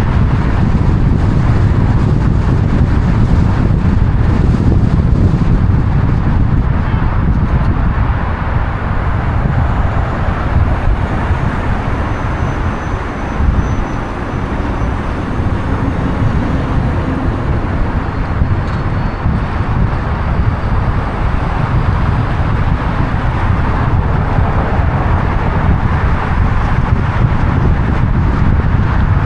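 Steady road and engine noise of a moving car: a constant low rumble with a hiss of tyres and wind, with no sudden events.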